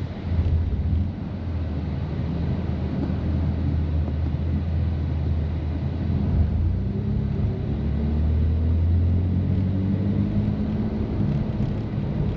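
BMW F80 M3's twin-turbo straight-six with catless downpipes and open exhaust valves, running at low revs under light throttle: a steady low drone whose pitch shifts a little in the second half.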